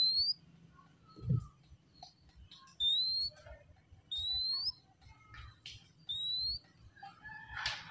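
Oriental magpie-robin (kacer) singing: four clear whistles, each rising in pitch and lasting about half a second, with softer chips and scratchy notes between them. A dull thump comes about a second in, and a louder scratchy burst near the end.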